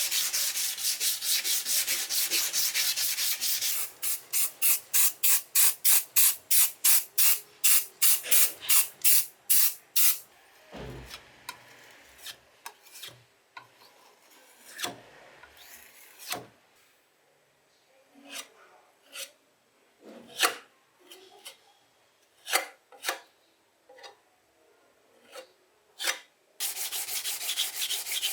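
Hand sanding of a rusted bench grinder part: fast continuous rubbing at first, then separate strokes about three a second. After about ten seconds the strokes stop, giving way to a low knock and scattered light clicks and taps, and the fast rubbing starts again near the end.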